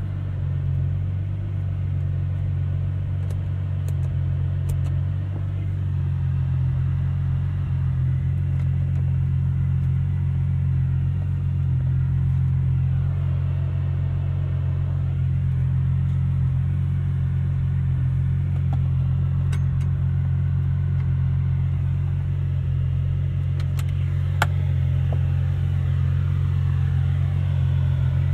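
Lamborghini Murciélago's 6.2-litre V12 running under way at a steady pace: a constant low drone with no revving, over a faint hiss of road noise and a few light clicks.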